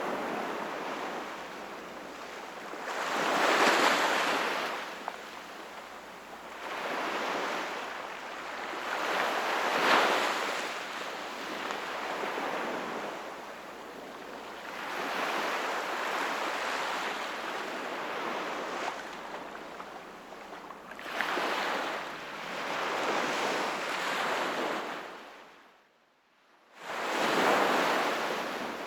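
Sea waves washing onto the shore, each wave swelling and falling back about every five to six seconds. The sound drops out almost completely for about a second near the end, then the waves return.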